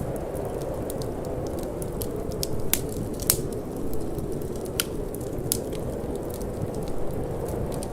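Wood fire crackling in a fireplace, with irregular sharp pops, the loudest a little over three seconds in, over a steady low rush of wind.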